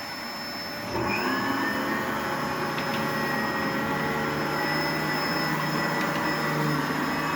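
Dyson bagless vacuum cleaner running on carpet: a steady motor whine over a rushing air noise, which grows louder about a second in and then holds level.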